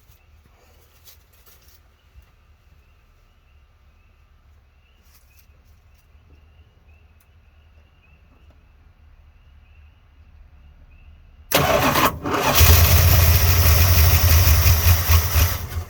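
Dodge Ramcharger engine, newly fitted with a rebuilt carburetor, cranks and catches about twelve seconds in on gas poured down the carburetor throat. It runs loudly for about three seconds, then cuts out suddenly: it dies once the primed fuel is used up, needing more gas in the carburetor.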